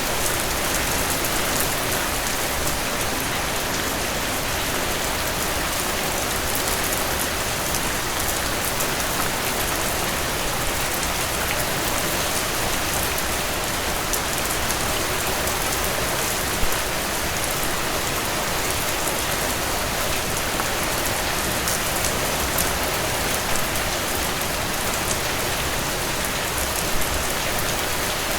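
Heavy rain drumming steadily on a tin roof, with a few sharper drop hits standing out about halfway through and near the end.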